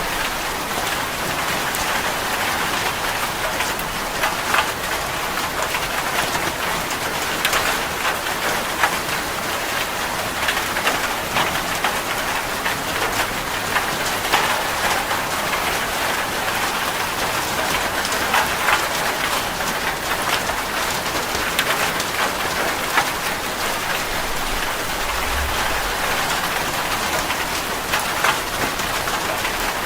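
Heavy rain drumming steadily on a metal roof, with frequent sharp, louder drop hits standing out from the dense patter.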